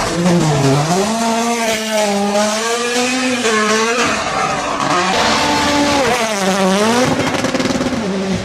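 Rally car engine at full throttle, its pitch repeatedly rising and dropping with gear changes and lifts, over gravel and tyre noise.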